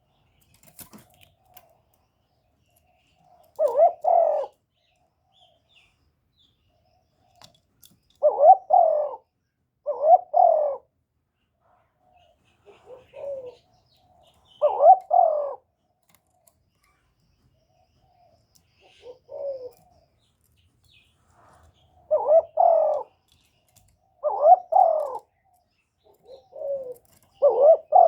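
Spotted dove cooing: a string of short coo phrases, each about a second long, coming every couple of seconds with longer gaps between some, closer together towards the end.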